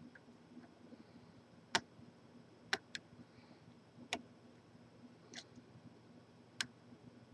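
Lock picking in a large Corbin padlock: six sharp clicks at irregular intervals as the pick and tension wrench work the pins.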